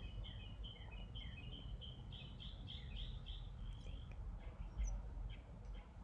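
A songbird chirping a quick run of short high notes, about four a second, that trails off into fainter, sparser chirps after about three and a half seconds, over a faint low rumble.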